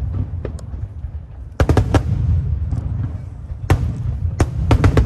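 Aerial fireworks bursting overhead: a quick cluster of sharp bangs about a second and a half in, then more scattered bangs in the second half, over a steady low rumble.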